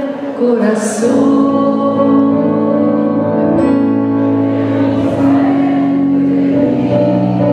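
Woman singing a slow tango with instrumental accompaniment, holding the word 'corazón' as one long sustained note.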